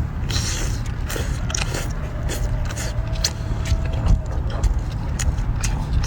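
A person biting and chewing seafood close to the microphone: a string of short, sharp, wet clicks and smacks, over a steady low rumble.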